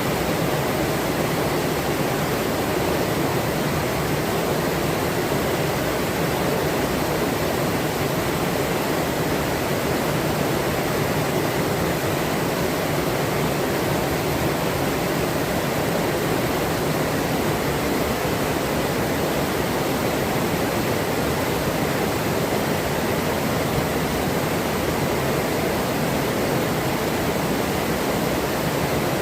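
Forest river flowing, a steady rushing of running water with no breaks.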